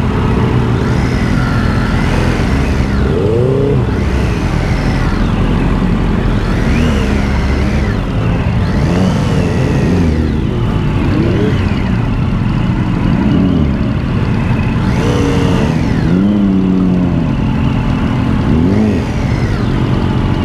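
Triumph Street Triple's inline three-cylinder engine under a riding motorcyclist, revving up and falling back again and again as the throttle is opened and closed. Constant low wind rumble on the helmet microphone runs under it.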